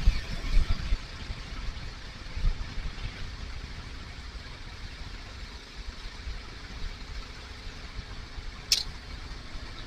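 Kawasaki KLR650 single-cylinder motorcycle engine running at low revs, heard from the rider's helmet camera with wind noise over it. A few low thumps in the first three seconds and a brief sharp tick near the end.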